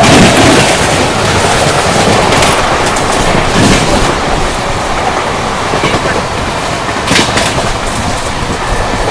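Indian Railways express trains running at speed side by side: a dense, steady rush of wheels on rail with clattering. It is loudest at the start, and a few sharp clacks come about seven seconds in.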